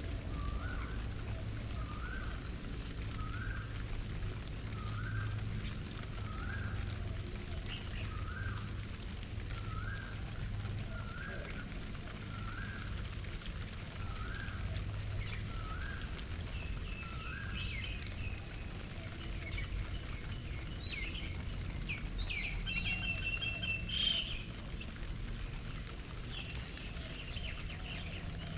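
Garden birds calling: one bird repeats a short rising call about every second and a half through the first half. Then other birds chirp at a higher pitch, with a louder burst of chirping about two-thirds of the way in. A low background rumble runs underneath.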